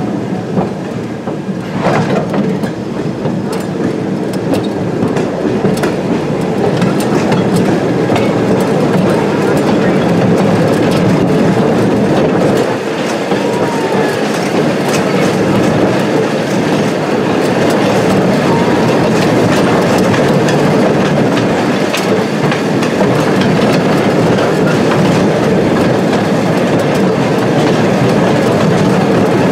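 Open passenger car of a small heritage train rolling along the track: steady running noise from the wheels and rails, with frequent clicks and clatter as the wheels pass over the rail joints.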